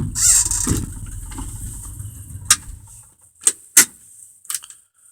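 1987 Dodge Ram D150 engine running, then shut off about three seconds in. A few sharp clicks of the key and ignition switch follow.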